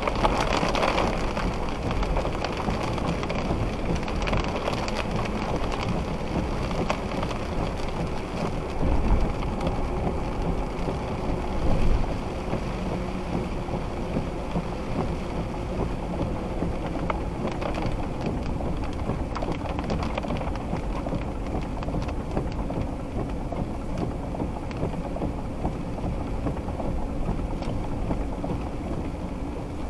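Steady rain falling hard during a thunderstorm, with two brief low rumbles about 9 and 12 seconds in.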